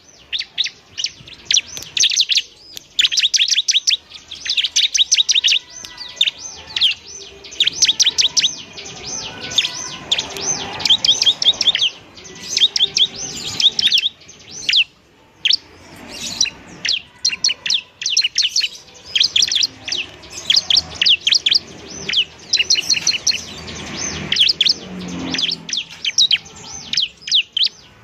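Bar-winged prinia (ciblek) singing: rapid runs of high, sharp chirps in bursts a second or two long, with short pauses between them.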